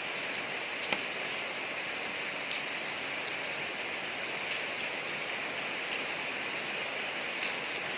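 Steady rain falling on a street, a constant hiss with scattered individual drops ticking, one sharper drop about a second in.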